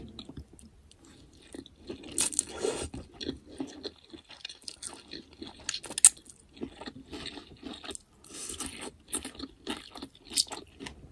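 Close-miked eating of a Vietnamese vermicelli bowl: irregular chewing and crunching bites, with a couple of longer scraping sounds.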